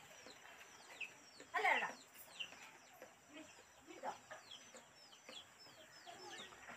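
Birds calling: a busy run of short, high, falling chirps, with one louder call about one and a half seconds in.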